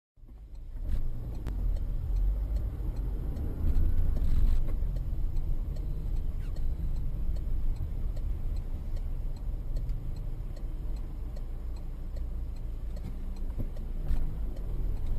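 Car driving noise, a steady low rumble of engine and tyres as heard from inside a moving car, with a faint regular ticking over it. It swells briefly about four seconds in.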